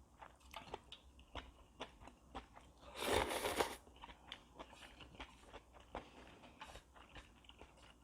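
Close-up eating sounds of a person eating oyster ramen: many small wet chewing and lip clicks, with one loud slurp lasting under a second about three seconds in.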